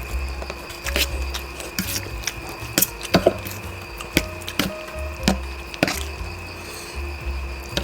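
Close-miked eating of instant noodles: irregular sharp mouth clicks and smacks of chewing, with a low pulsing music bass underneath.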